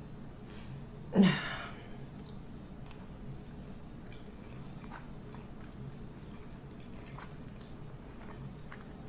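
A person chewing food close to the microphone, with one short, loud mouth noise about a second in, then quiet, scattered chewing clicks.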